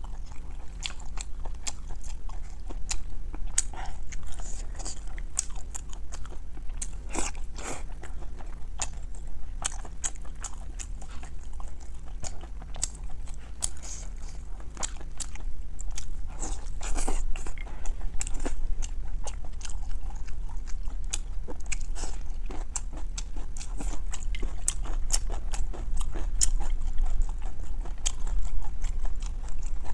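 Close-miked eating: wet chewing, smacking and sticky mouth clicks of someone eating soft, fatty cooked meat, in a dense irregular stream over a faint steady low hum.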